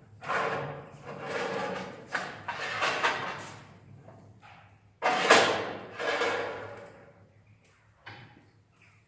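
A metal fireplace insert being worked open and shut: a run of scraping slides, the loudest starting suddenly about five seconds in, with a short one near the end.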